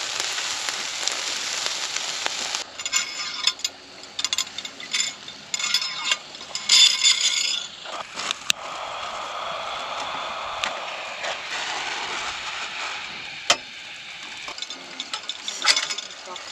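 Food sizzling in a pan on a camp stove, with a run of irregular metallic clinks and scrapes in the middle and a few sharp clicks later on.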